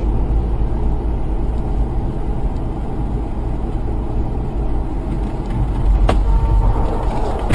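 Steady low rumble of a car on the road, engine and road noise together, with one sharp click about six seconds in.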